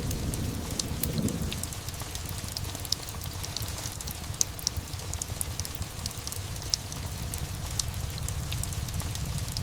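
Steady rain with a thunder rumble dying away over the first second and a half, and many sharp little clicks and pops scattered throughout.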